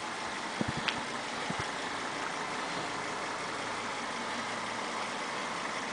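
Volvo S60 T5's turbocharged petrol engine idling steadily, with a few faint knocks in the first couple of seconds.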